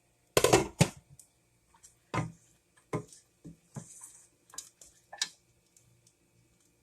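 Spoon scraping and clicking against a pan of cooked poha as a taste is scooped out: one loud scrape about half a second in, then scattered light clicks and taps that die away after about five seconds.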